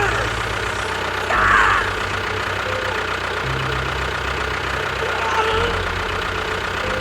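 Engine idling with a low, steady chug that shifts pitch a few times, with brief high-pitched voice-like cries over it.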